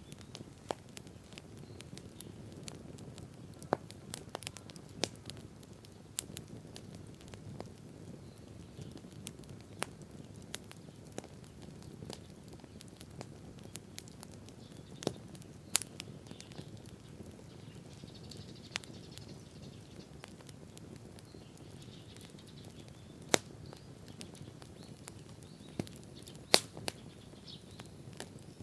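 Wood bonfire crackling: irregular sharp pops and snaps from the burning wood, a few much louder ones in the second half, over a low steady rumble of the fire.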